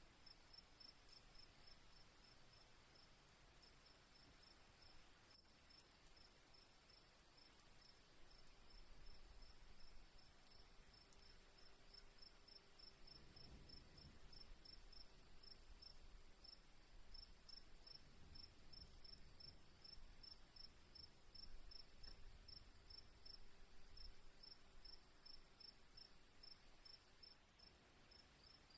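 Crickets chirping steadily at a quiet level: one continuous high trill and, beneath it, a second insect giving short, evenly spaced chirps several times a second.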